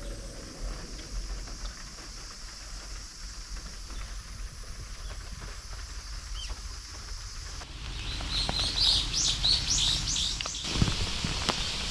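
A bird chirping: a quick run of high, short notes a little past the middle, over a faint background hiss and low hum, with a single knock near the end.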